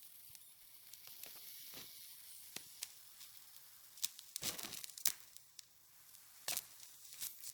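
Snow being handled and crunched: a faint fizzing crackle broken by sharp crunches, with louder clusters about halfway through and again near the end.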